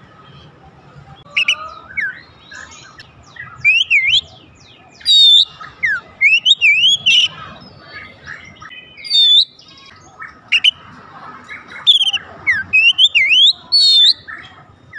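Oriental magpie-robin (kacer) singing: loud, varied whistled phrases made of quick rising and falling glides and short scratchy trills, coming in bursts with brief pauses between them.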